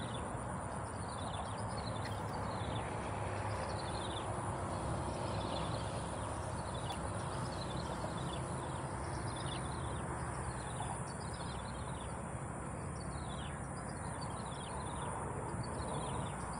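Outdoor ambience: a bird repeats short high chirps that fall in pitch, about one a second, over a steady rumble of distant road traffic and a constant thin high whine.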